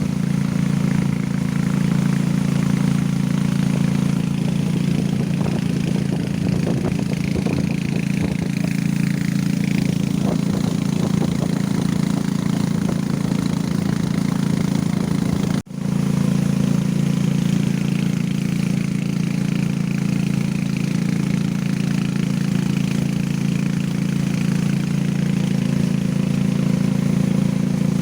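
Motorcycle engine running steadily, with a short drop-out about halfway through.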